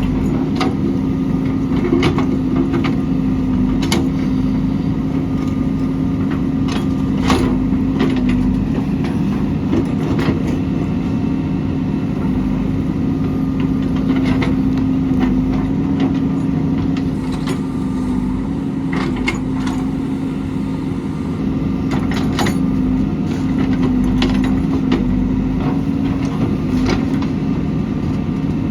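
JCB backhoe loader's diesel engine running steadily at an even speed, with scattered sharp clanks and knocks over it.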